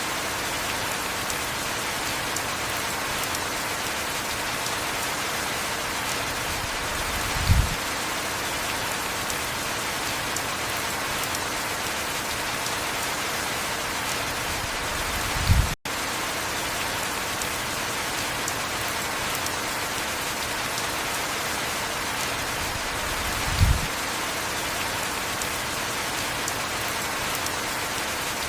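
Heavy rain falling steadily, an even hiss, with a short low thud three times, about every eight seconds. The sound cuts out for an instant about halfway through.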